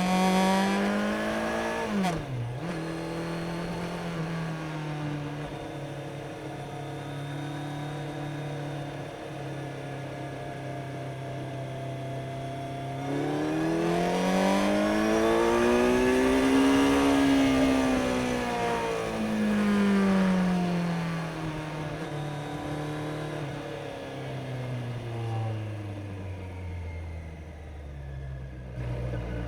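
Kawasaki Z900's inline-four engine under way, heard from on the bike. The revs dip sharply and recover about two seconds in, hold steady, then climb smoothly to a peak about halfway through and fall back, and drop off gradually near the end.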